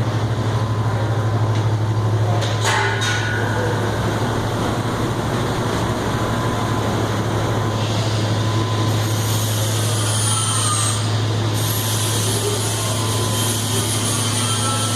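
Potato washing machine with 30 rotating brushes running steadily, a strong low hum under a constant mechanical rush. A single brief knock comes about two and a half seconds in.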